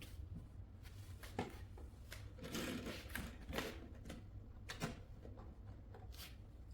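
Scattered light clicks and knocks of a plastic toy being handled, over a low steady hum.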